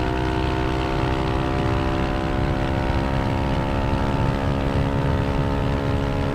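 Yamaha Aerox 155 scooter's single-cylinder engine running through a Villan SR1 aftermarket exhaust at a steady high pitch, above 5,000 rpm with its VVA switched in.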